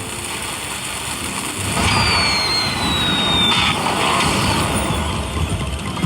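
Steady casino-floor din of slot machines, with an electronic slot sound effect: a high tone sliding slowly downward for about a second and a half, starting about two seconds in.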